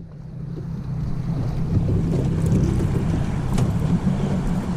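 Boat motor running steadily under way, building over the first second, with wind buffeting the microphone.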